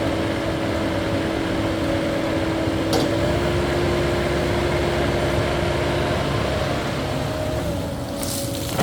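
Caterpillar 308E2 mini excavator's diesel engine and hydraulics running under work, with a steady whine over the engine drone. There is a brief click about three seconds in, and the whine shifts near the end.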